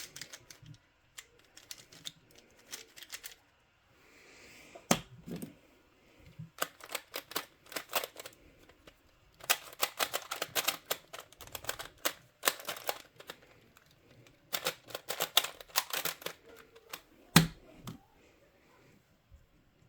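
Plastic twisty-puzzle cube being turned by hand: bursts of fast clicking turns separated by short pauses. There is a sharp knock about five seconds in and another louder one near the end.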